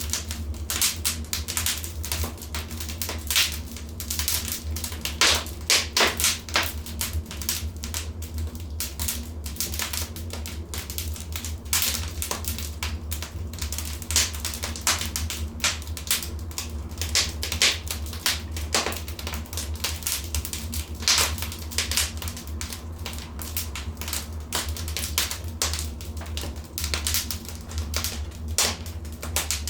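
Wood fire burning in a fireplace: dense, irregular crackling with louder pops here and there, over a steady low rumble.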